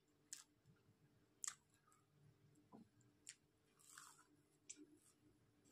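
Faint eating sounds of a person chewing a toasted potato-and-pea sandwich: scattered soft mouth clicks, and a brief soft crunch of a bite about four seconds in.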